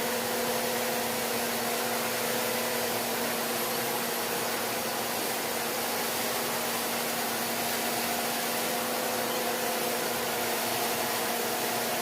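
A steady whir and hiss from a running appliance motor, with a faint low hum and no change in level.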